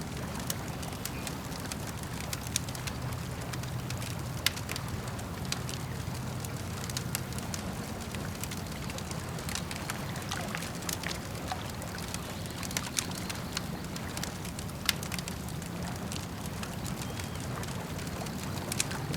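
Campfire crackling with irregular sharp pops and snaps, over a steady low rumble and the lapping of lake water.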